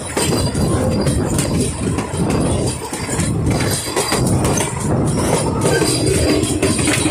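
Narrow-gauge steam train, Puffing Billy's NA class locomotive 8A with its carriages, running along the line: a steady loud rumble with wheels clattering over the rails.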